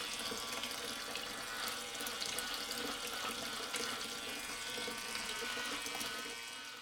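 Water running and splashing steadily from a mini DIY water pump.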